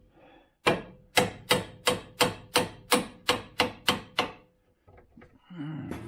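A hammer striking steel in a quick series of about eleven blows, roughly three a second, each with a short metallic ring, stopping about four seconds in. The blows land on the front-end parts during a CV shaft replacement.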